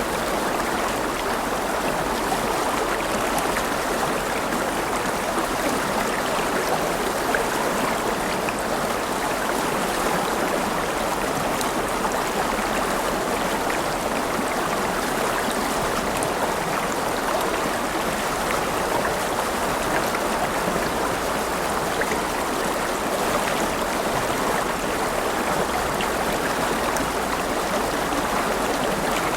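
River water flowing over rocks: a steady, even rush with small gurgles and no change in strength.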